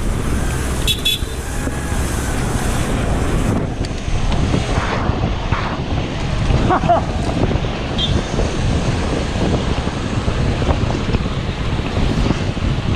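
Wind buffeting the microphone of a bike-mounted action camera while riding, a steady low rumble.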